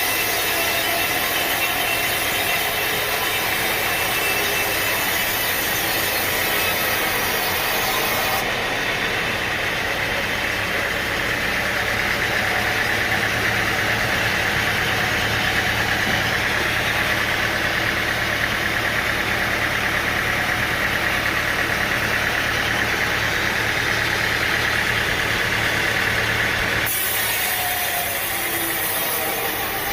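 Sawmill machinery running: an engine drives a saw as it cuts through wood. The sound changes abruptly about eight seconds in and again near the end, then settles into a steady engine hum with a grinding cut.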